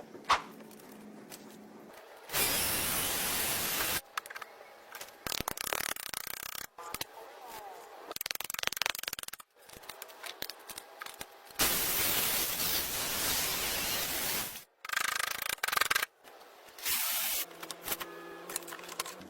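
Workshop tool work on an axe handle, heard as several abruptly cut bursts of steady hissing noise with clicks and knocks between them.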